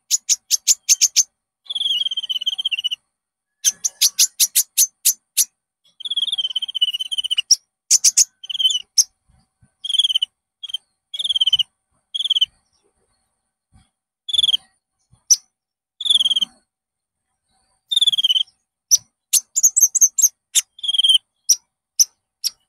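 Konin bird song: runs of rapid, high, sharp ticking notes at about eight a second, alternating with buzzy, rasping calls held for about a second each, with short pauses between phrases.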